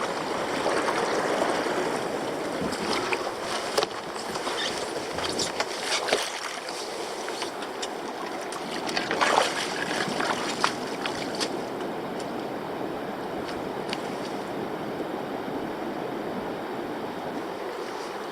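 Water splashing and sloshing around a kayak as it is paddled, with a few sharper splashes now and then.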